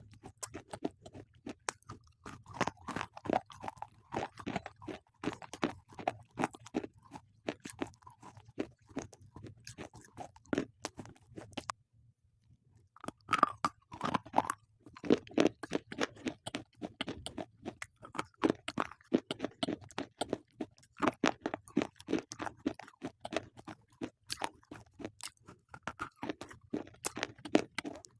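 Close-up chewing of slate pencils: a rapid, continuous run of sharp, brittle crunches, breaking off for about a second midway and then resuming a little louder.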